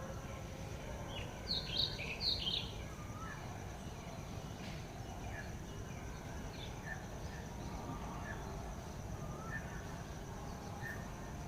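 Wild birds chirping outdoors, with a brief flurry of high calls about two seconds in, then single short chirps about once a second. A steady high thin hum and a low background rumble run underneath.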